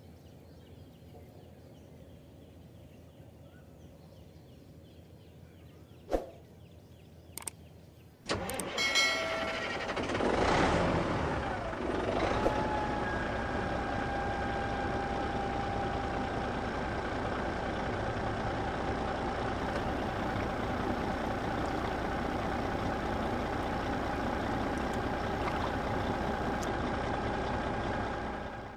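Two sharp clicks, then about eight seconds in a motor starts up with a brief rise in pitch and settles into steady running with a constant whine.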